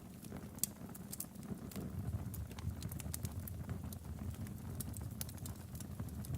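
Wood fire burning in a fireplace: logs crackling with irregular sharp pops over a low, steady rumble of flame.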